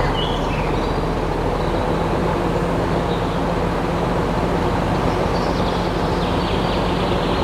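Small motor running steadily with a low hum, with no change in speed. It is likely the electric motor driving one of the DIY model vehicles.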